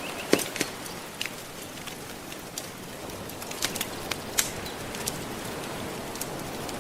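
Wood fire crackling, with a handful of sharp pops, the loudest just after the start, over a steady wash of gentle ocean waves.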